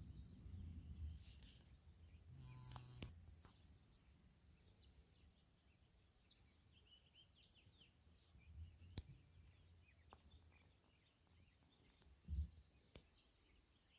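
Faint storm-evening ambience: a low rumble over the first three seconds, then scattered faint bird chirps. There are a couple of sharp clicks and a short low thump near the end.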